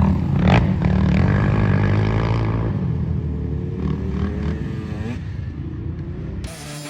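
Dirt bike engine running, its pitch rising and falling and slowly growing fainter. It cuts off about six and a half seconds in, replaced by guitar music.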